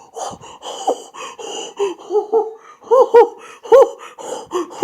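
A person laughing, the short laughs getting louder and quicker in the second half.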